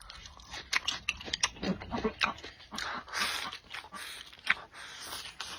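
A person chewing food up close, with wet mouth clicks and smacks, and a short hiss-like slurp or breath about three seconds in.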